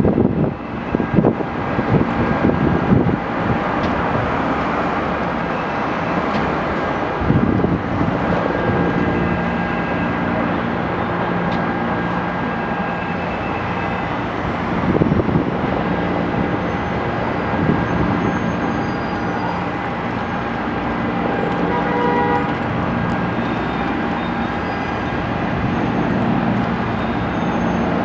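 Steady vehicle noise: a continuous engine hum over a rumble of traffic, swelling briefly a few times.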